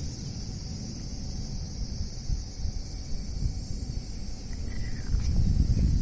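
Steady high-pitched chorus of insects, with wind buffeting the microphone as a low rumble that grows louder near the end.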